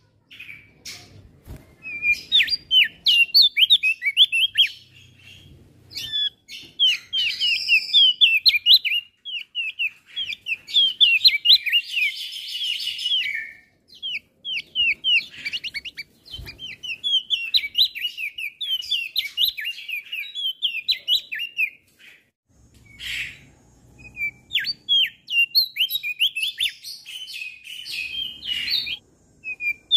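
Male opior jambul singing: phrases of rapid, high chirping notes that fall quickly in pitch, broken by brief pauses, with a buzzier stretch about twelve seconds in.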